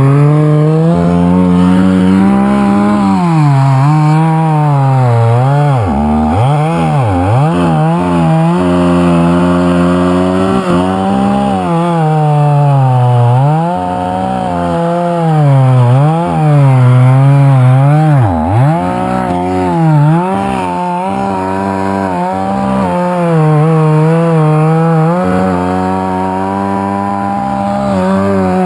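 Chainsaw running under load, cutting wood. The engine note dips sharply and recovers again and again as the chain bites and the throttle is worked.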